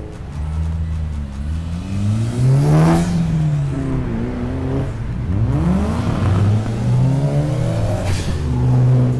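Car engine revving twice, its pitch climbing and then falling each time.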